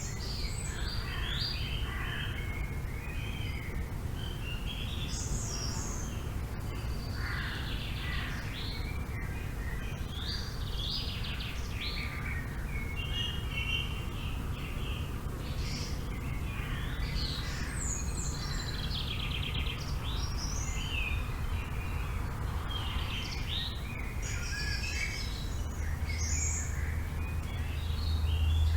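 Forest birds chirping and calling over one another, many short calls and trills. Under them runs a steady low rumble that grows louder near the end.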